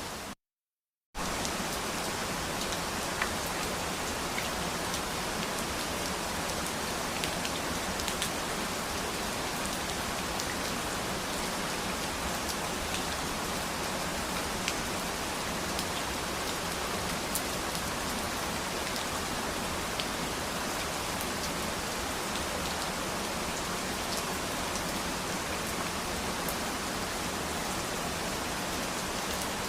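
Steady rain falling, an even hiss with scattered sharp drop ticks. It cuts to silence for about a second just after the start, then resumes.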